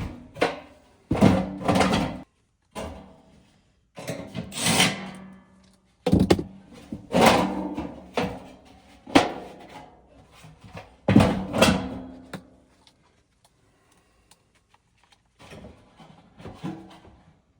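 A series of irregular clunks, knocks and scrapes from parts and tools being handled during furnace blower work, a few seconds apart, going quieter for a while before fainter knocks near the end.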